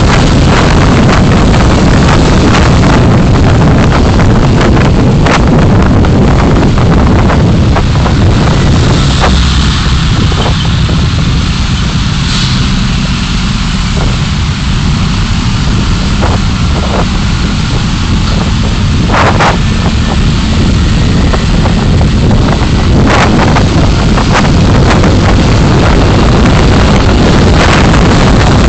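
Car on the move heard through a dashcam microphone: a loud, steady rumble of road and wind noise, with a few short knocks, a louder one about two-thirds of the way through.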